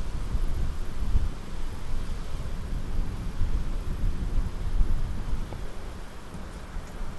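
Low rumble of a train moving away and fading, mixed with wind buffeting the microphone; it dies down over the last couple of seconds.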